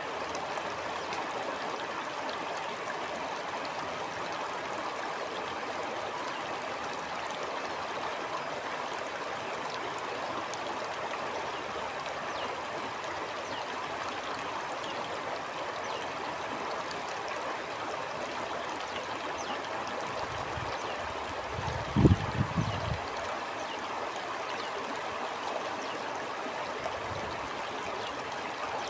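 A small stream running steadily over rocks, a constant rushing with trickles and gurgles. About three-quarters of the way through, a brief low rumble with a few quick bumps rises above it.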